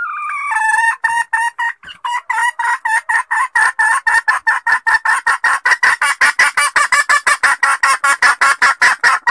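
Female junglefowl giving a lure call: a drawn-out note, then a run of sharp clucks that speeds up to about five or six a second and stops abruptly. This hen's call is used to draw wild cocks out of hiding.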